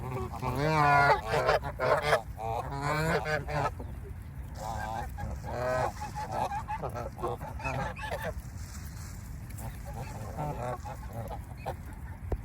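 Geese honking: a loud run of overlapping calls in the first few seconds, then quieter, more scattered honks.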